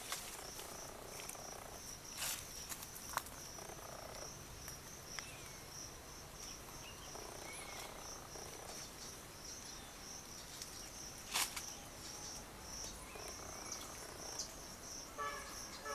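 Insects chirring steadily in a fast, even, high-pitched pulse, with a few faint clicks and rustles over it.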